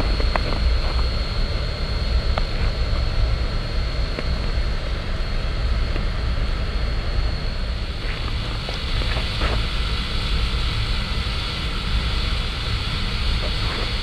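Steady rumble of the PKP Ol49 steam locomotive running, heard from the footplate, with scattered sharp clicks and a faint steady high hiss over it.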